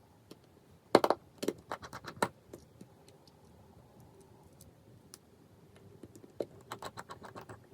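Sharp small clicks and taps of phone parts and tools being handled during iPhone 5s reassembly, in a quick cluster about a second in and another near the end.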